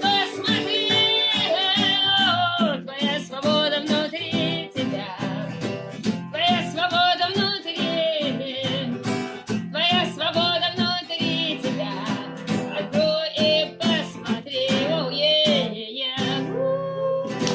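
A voice singing a song with acoustic guitar accompaniment, ending on a held chord and note near the end.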